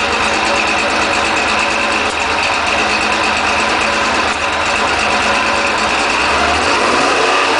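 Newly built Porsche 911 2.5-litre twin-plug air-cooled flat-six engine running steadily on its first run.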